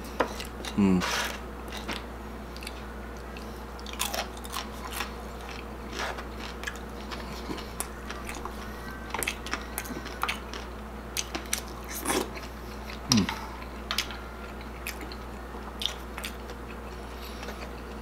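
Close-up chewing of crispy deep-fried chicharon bulaklak, with sharp crunches and crackles scattered throughout. Twice a brief falling hum, about a second in and again about thirteen seconds in.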